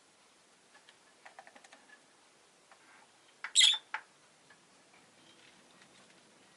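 Rosy-faced lovebird giving one short, loud, sharp chirp about three and a half seconds in, after a quick run of soft ticks a little over a second in.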